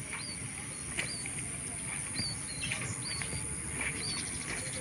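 A bird giving short, high chirps about once a second over a faint steady outdoor hiss.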